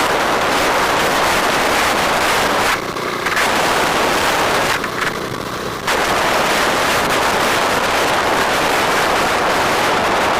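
Wind buffeting the microphone of a moving bike: a dense, steady rush with rapid crackling, easing off briefly twice, about three and five seconds in.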